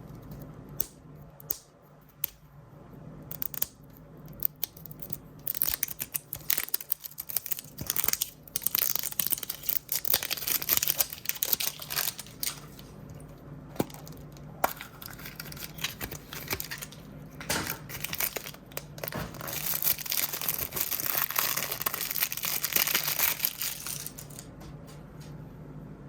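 A toy blind bag's wrapper being torn open and crinkled by hand. There are a few light clicks at first, then sustained crackling and crinkling that dies down near the end.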